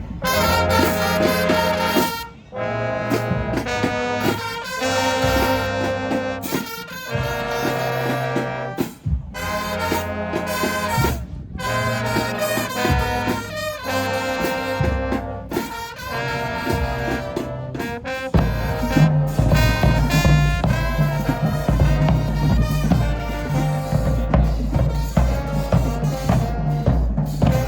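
High school marching band playing, its brass sounding held chords in phrases broken by short gaps. About eighteen seconds in a heavy low bass and a steady driving beat come in under the horns.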